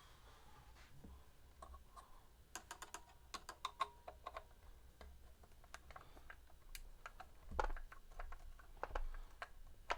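Small metal guitar hardware and a screwdriver clicking and tapping as they are handled on a workbench, with a quick run of light clicks a few seconds in and a dull knock near the end.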